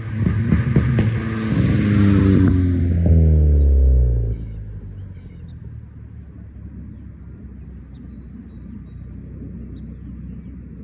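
2017 Chevrolet Cruze's custom exhaust running loudly for about four seconds, its note falling in pitch as it eases off, then settling into a quieter, steady low rumble.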